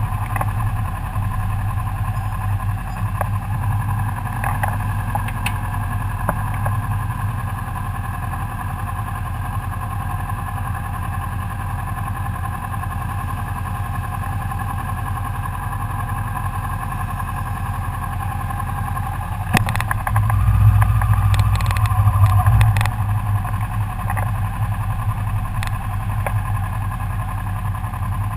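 Kawasaki Ninja 650R's parallel-twin engine idling steadily, with a few light clicks. A louder, deeper stretch of engine sound comes about twenty seconds in and lasts a few seconds.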